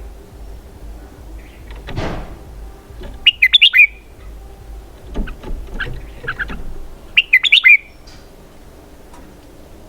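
Red-whiskered bulbul singing: two loud bursts of quick, twisting notes about three and seven seconds in, with softer notes between. A brief whoosh about two seconds in.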